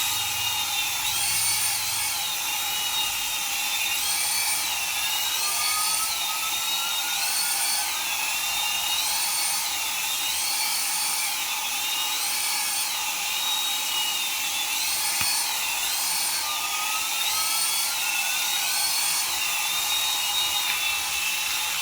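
High-pitched whine of a battery-powered toy's small electric motor, running steadily. Its pitch dips and rises again about every second and a half, with a few slower rising tones underneath.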